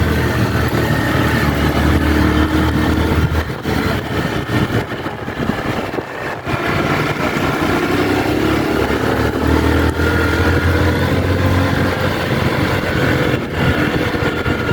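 Motorcycle engine running under way, easing off about four seconds in and picking up again around seven seconds, with a brief dip again near the end.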